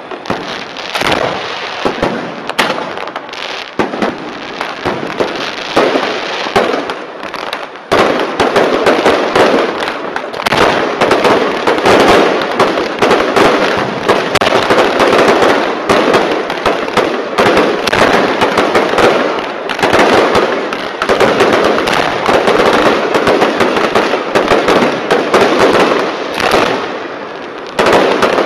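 Fireworks going off in rapid succession: a dense, unbroken run of bangs and crackling, which gets louder about eight seconds in and stays loud.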